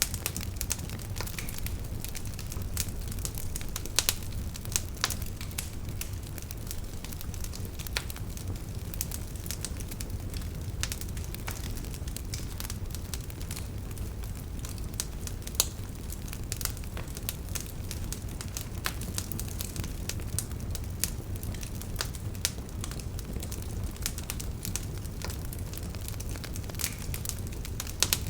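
Wood campfire crackling steadily, with irregular snaps and the odd sharper pop over a low, steady rumble of the flames.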